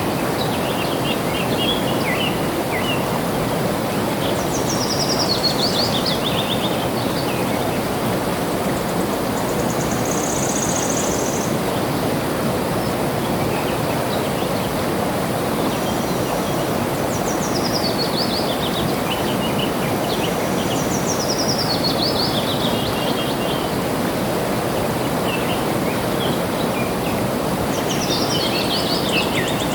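Steady rush of flowing water with birds singing over it. Four times a bird sings a quick run of notes falling in pitch, each lasting a second or two, with scattered short chirps between and one brief high thin note about ten seconds in.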